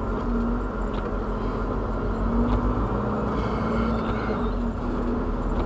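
Steady engine hum and road noise of a car, heard from inside the cabin.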